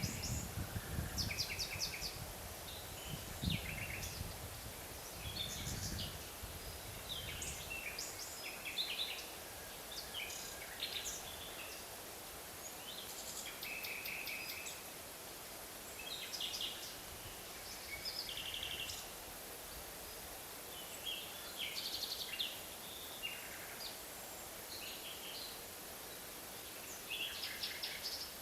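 Forest birds calling: many short chirps and quick trills from several birds, over a steady background hiss. A low rumble sits underneath for the first several seconds, then fades out.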